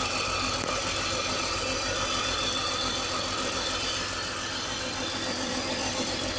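Car engine idling steadily, heard close up in the engine bay, with a steady hissing whine of air being sucked in at a vacuum leak; the owner suspects an intake pipe that didn't hook back on properly.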